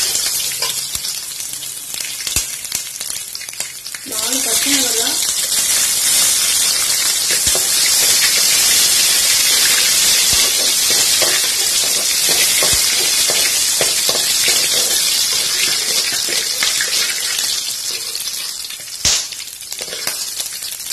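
Garlic, dal and seeds, then green chillies, sizzling steadily in hot oil in a metal kadai, with a flat steel spatula scraping and clicking against the pan as they are stirred. The sizzle softens briefly early on and again near the end, where the spatula gives one sharp click.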